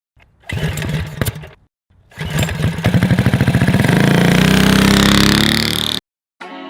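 Honda Chaly minibike's small motorcycle engine running in two short bursts, then after a brief pause revving up with a rising pitch for about four seconds before cutting off suddenly.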